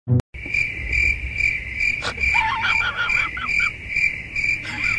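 Insect chirping: a steady high trill that pulses about twice a second, with a few short squeaky calls about halfway through.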